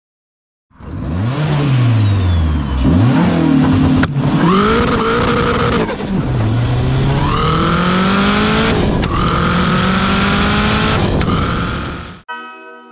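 A car engine revving hard, its pitch swinging up and down, then accelerating through the gears: the pitch climbs steadily and drops sharply at each shift, three or four times. The sound cuts off suddenly near the end.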